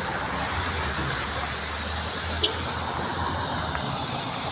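Hino truck running with a steady low engine drone under a constant rushing noise. A single sharp click comes about two and a half seconds in.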